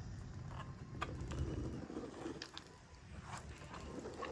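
A few light, sharp clicks and knocks, spaced irregularly, over a low background rumble.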